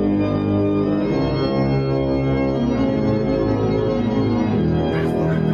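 Background organ music: slow, sustained chords held and changed every second or so.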